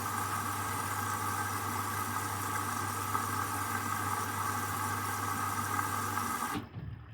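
Washing machine drain pump running steadily at the start of the wash cycle, a hum with a whine over it, cutting off suddenly about six and a half seconds in, just before the water fill for the main wash.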